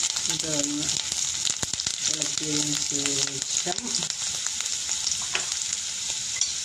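Chopped ginger and curry leaves sizzling steadily in hot coconut oil in a nonstick wok, with a silicone spatula stirring and giving a few light scrapes and taps.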